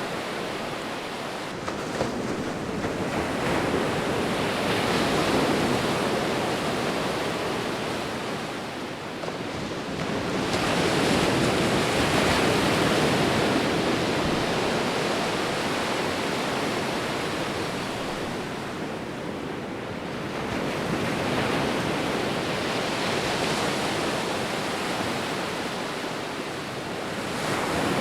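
Ocean waves rolling in: a continuous wash of surf that swells and eases four times, the loudest surge about halfway through.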